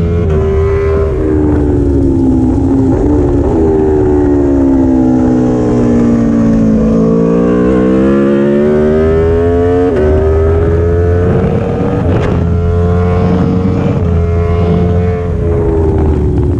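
Aprilia Tuono V4 1100 Factory's V4 engine under way on track, heard onboard. The revs fall for several seconds, then climb again, with sudden jumps in pitch at gear changes.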